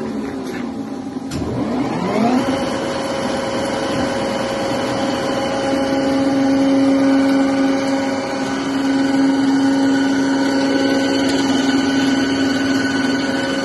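Hegenscheidt deep hole drilling machine's spindle drive slowing down, a sharp clack about a second in, then spinning back up over about a second and running at a steady high speed with a whine of several tones.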